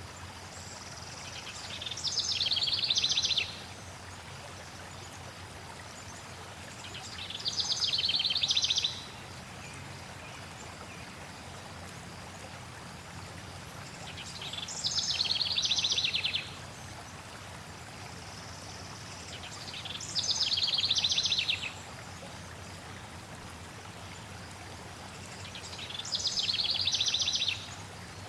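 A songbird repeating the same short, high, rapid trilled song about every six seconds, each phrase swelling in loudness and then cutting off sharply, over the steady rush of flowing water.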